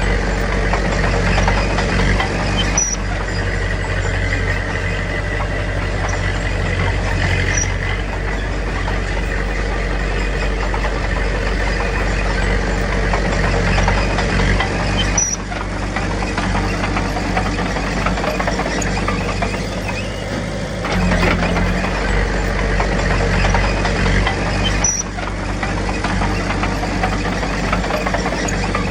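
Diesel engines of heavy earthmoving machinery, a small crawler bulldozer and dump trucks, running steadily at working speed. The sound drops briefly about three times.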